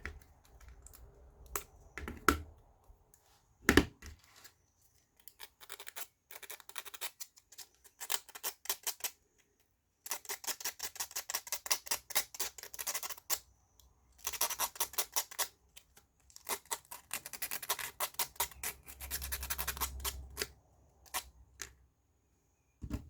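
Small wooden puzzle tiles being handled as picture pieces are stuck on: a few separate knocks, then several runs of a few seconds each of rapid, scratchy clicking and rubbing.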